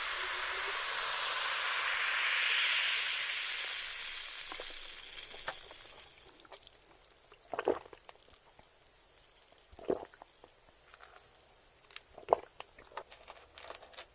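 Food sizzling in a hot pan, the hiss fading away over the first five seconds or so, followed by a few scattered sharp clicks and taps.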